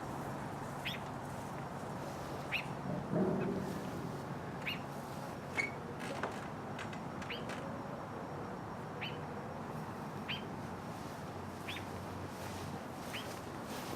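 A small songbird chirping, short rising chirps repeated about once a second over a steady outdoor hiss. A brief muffled, lower sound comes about three seconds in.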